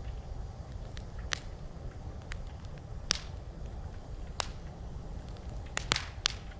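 Wood campfire crackling, with sharp pops and snaps every second or so and a quick cluster of three pops near the end, over a steady low rumble.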